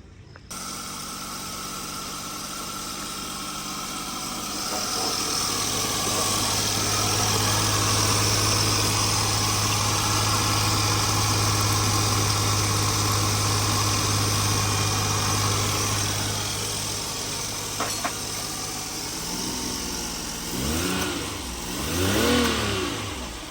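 Daihatsu Mira engine, newly fitted, running at a steady idle that starts suddenly about half a second in and steps up a little a few seconds later. Near the end the revs are blipped a few times, the pitch rising and falling, before the sound cuts off.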